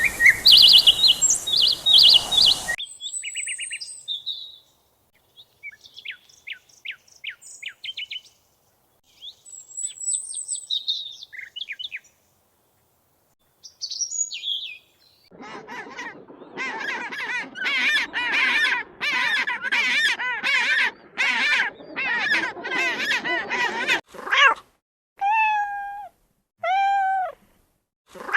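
Birds chirping and calling: bright chirps at first, then sparse high trills, then a long run of harsh calls about twice a second. Near the end a cat meows several times.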